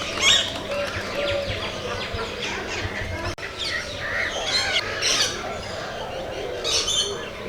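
Many aviary birds calling at once: a dense mix of overlapping chirps and squawks.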